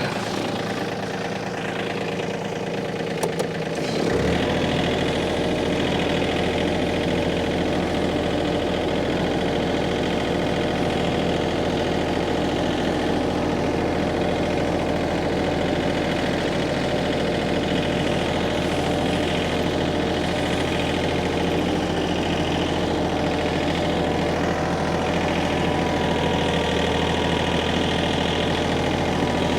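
Farm tractor engine running steadily while working a front-end loader. About four seconds in, just after a short knock, it picks up to a louder, deeper steady run under load.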